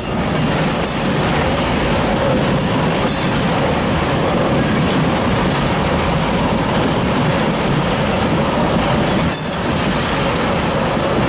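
Freight train of tank cars rolling past: a steady, loud rumble of steel wheels on rail, with brief high wheel squeals a few times, one right at the start and another near the end.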